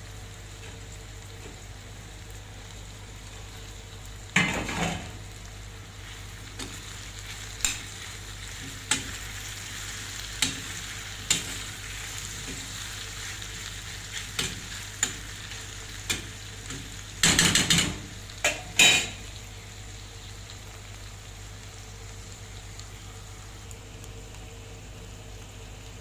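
Food sizzling as it fries in a pan, with a utensil stirring and knocking against the pan about a dozen times; a louder run of scrapes comes about two thirds of the way in.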